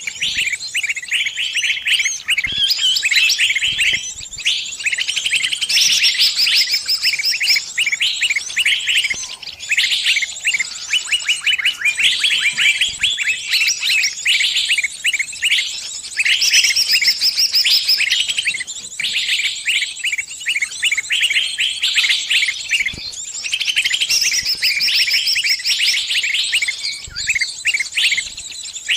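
Small birds chirping rapidly and without letup, many high calls overlapping: the distress calls of a trapped bird crying out to its flock, with others calling back.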